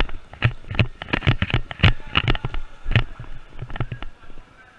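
Sharp, irregular cracks and knocks of an airsoft firefight, about four a second and sometimes in quick clusters: single shots from airsoft guns and BBs striking.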